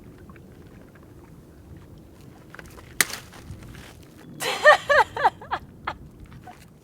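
A sharp click about three seconds in, then a quick run of short, high-pitched vocal exclamations from a woman.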